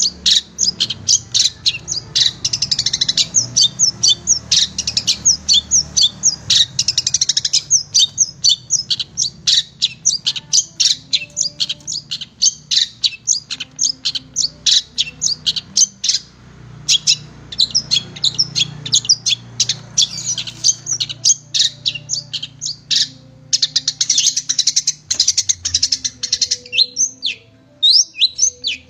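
Long-tailed shrike (cendet) singing a fast, continuous chattering song of sharp, high chirps, several notes a second, with brief pauses.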